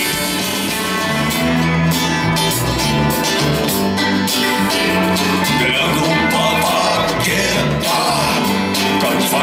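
A band playing live: a steady bass line with guitar, joined about halfway through by a wavering high melody line.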